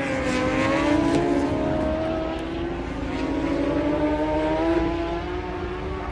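Racing superbike engines running at high revs, with several engine notes sliding up and down in pitch.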